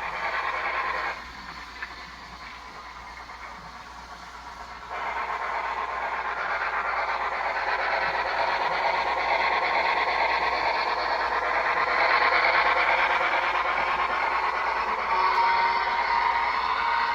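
Model steam locomotive running on layout track, a steady rushing clatter. It drops away abruptly about a second in and comes back about five seconds in. A steady tone joins near the end.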